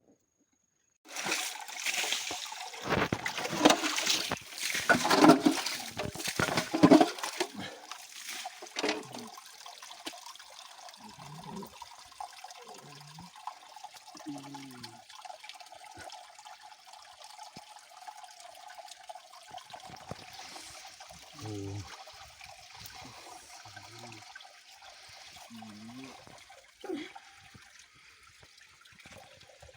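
Water splashing and sloshing in a shallow hill stream for several seconds, as if being waded or worked by hand. It settles to the stream trickling steadily, with a few short low voice sounds.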